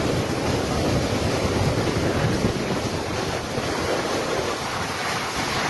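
Typhoon winds blowing hard as a steady rushing noise, with wind buffeting the microphone.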